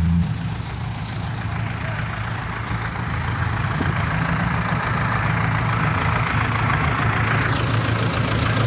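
Diesel dump truck engine idling steadily, with a rushing noise that builds and stops shortly before the end.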